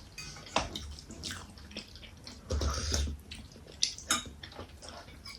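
People eating momos: wet chewing and mouth smacks with scattered small clicks, and a louder, noisier stretch about halfway through.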